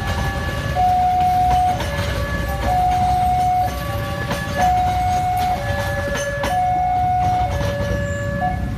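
Railway level-crossing warning alarm sounding a two-tone pattern, a higher and a lower tone alternating about once a second. A train runs past underneath it as a steady low rumble, with a few clanks from the wheels.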